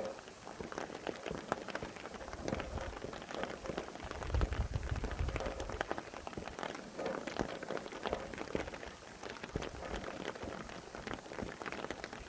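Steady rain, with many separate drops striking nearby surfaces, and wind gusting in a low rumble about four seconds in.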